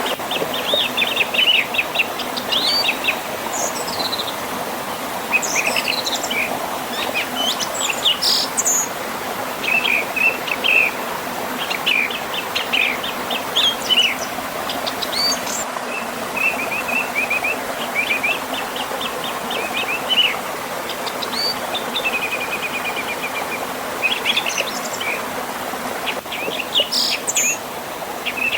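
Songbirds chirping and singing in frequent short phrases, some of rapid repeated notes and one held trill, over the steady rush of a river flowing past a small waterfall.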